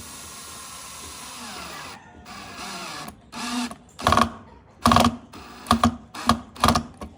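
Small electric power tool running with a whine that winds down about a second and a half in, then switched on in about six short bursts.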